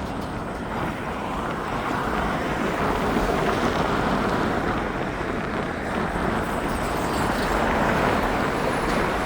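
Jet engines of an airliner on landing approach, a steady rushing noise that swells a little after the first couple of seconds, with wind on the microphone.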